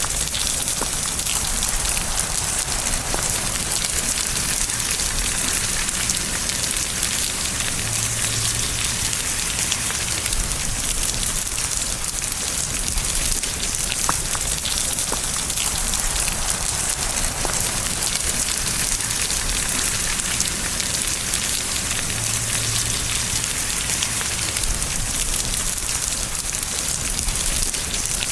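Steady, constant rain falling on a surface: a dense even hiss with scattered single drops ticking through it.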